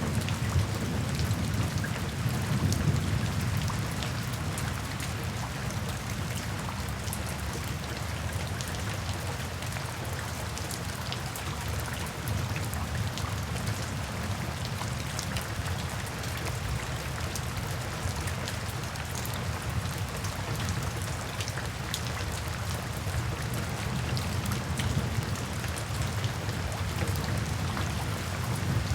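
Steady rain falling, with the patter of individual drops ticking through it. A low rumble of thunder dies away over the first few seconds.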